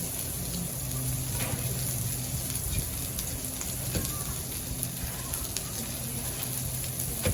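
Steady sizzling on a hot Blackstone flat-top griddle, with a few short sharp taps over it.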